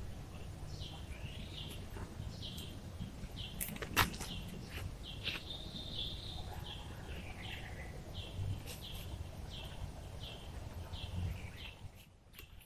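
A bird repeats a short, falling call about twice a second over a steady low background noise. A few sharp knocks come from work at the edge of a tarp shelter, the loudest about four seconds in, and footsteps on the forest floor follow near the end.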